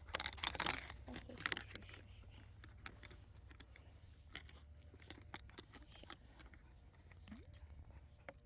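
Faint scattered clicks and crinkling rustles over a low steady hum, busiest in the first second and a half.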